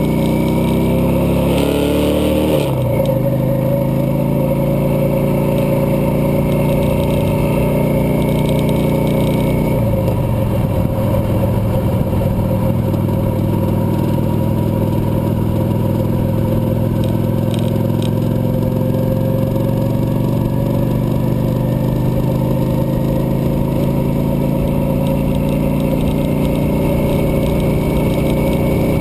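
Cruiser motorcycle engine running under way, its pitch climbing for the first couple of seconds and then dropping sharply, as at a gear change. It eases down again about ten seconds in and then holds fairly steady.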